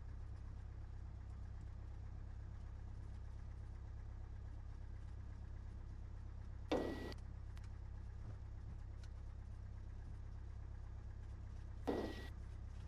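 Cessna 172's piston engine idling, a steady low drone heard through the cockpit intercom, with two short bursts of noise about seven and twelve seconds in.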